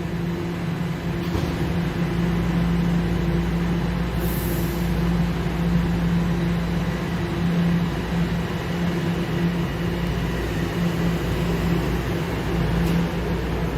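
TTC subway train running with a steady, loud hum from its motors and equipment, with a brief high hiss about four seconds in.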